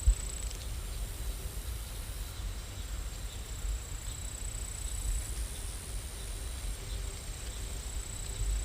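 Steady rain sound: an even hiss over a low rumble, with a faint high whine. There is one short thump right at the start.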